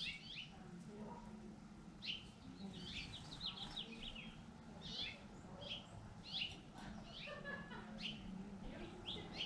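Small songbirds chirping: many short, high, downward-slurred notes, some in quick runs.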